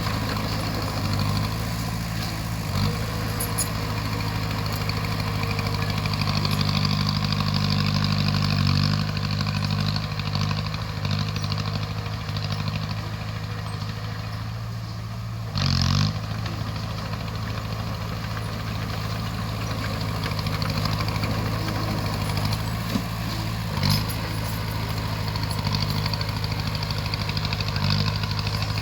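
Bulldozer's diesel engine running steadily, with a short louder burst about sixteen seconds in and a few sharp knocks.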